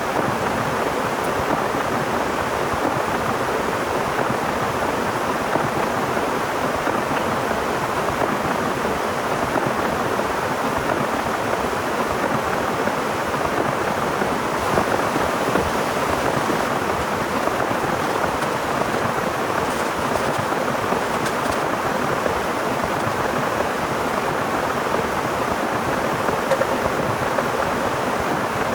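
Heavy rain falling steadily in a dense, even patter.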